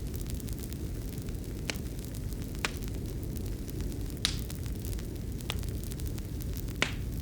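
Wood fire burning in a fireplace: a steady low rumble of the flames with sharp crackling pops, five clear ones spaced roughly a second apart and fainter ticks in between.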